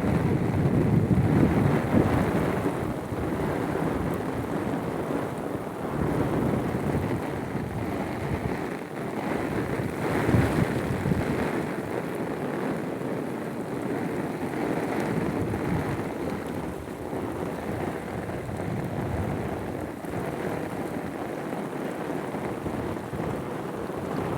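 Heavy rain pouring down steadily, swelling and easing in intensity.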